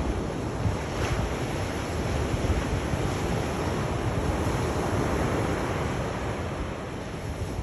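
Sea waves washing on the shore, a steady rushing surf with gentle swells in loudness and a low rumble, with some wind.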